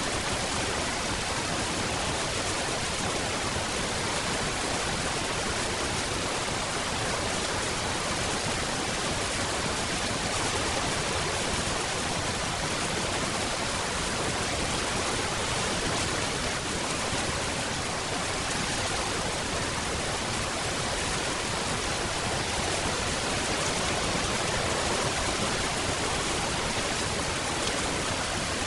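Steady heavy rain, an even hiss of falling water with no distinct drops or thunder.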